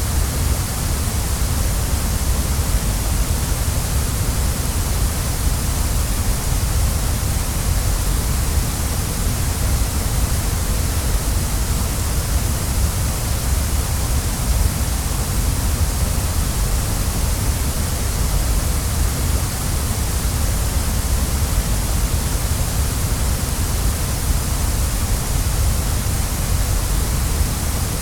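Waterfall rushing steadily, a constant wash of falling water with a deep rumble beneath it.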